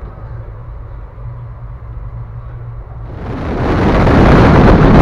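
Low steady rumble and hum of a running passenger train heard inside the coach. About three seconds in, it changes to a much louder rush of wind and wheel-on-rail noise from outside the side of the moving train.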